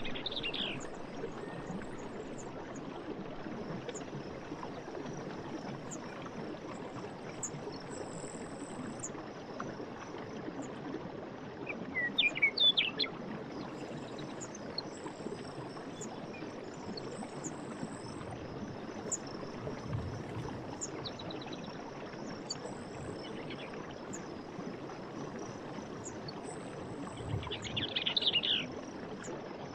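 Night forest ambience: a steady high-pitched insect chorus over a constant rushing background, with bursts of quick bird chirps about twelve seconds in and again near the end.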